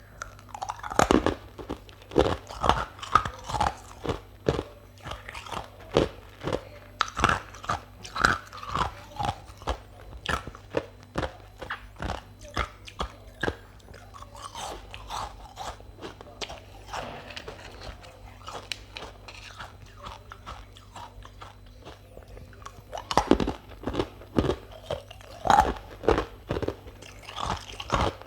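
Close-miked biting and chewing of something hard and crunchy, with rapid sharp crunches. The crunching thins out to softer chewing about halfway through, then picks up again near the end.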